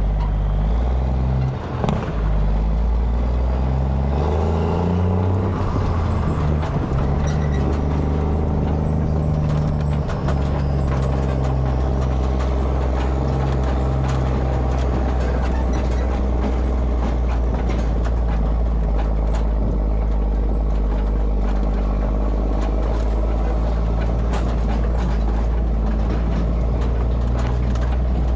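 A heavy vehicle engine running continuously, its revs rising and falling in steps through the first ten seconds or so, then holding a steady speed.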